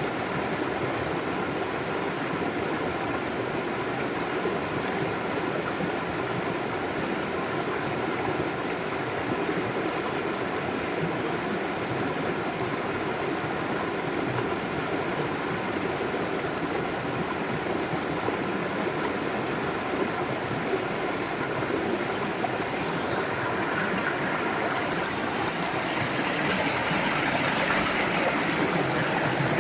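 A river flowing steadily over rocks, a continuous rushing and burbling of water that swells slightly louder near the end.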